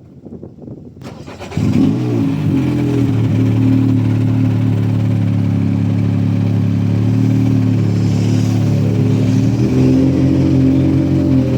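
Rally car engine running hard at high revs. It starts abruptly about a second and a half in and holds a fairly steady pitch, rising slightly near the end.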